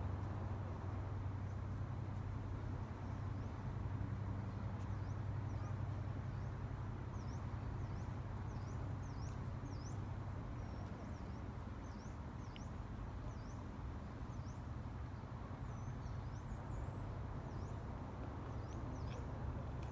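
Small birds chirping in short, sharp, repeated calls from about five seconds in, over a steady low background rumble.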